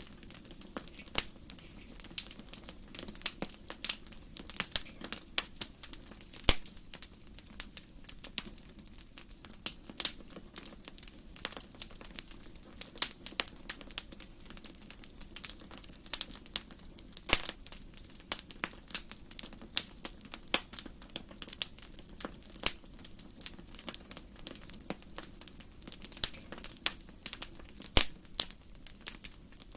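Wood fire burning in a fireplace: a steady stream of irregular crackles and sharp pops over a soft low hiss.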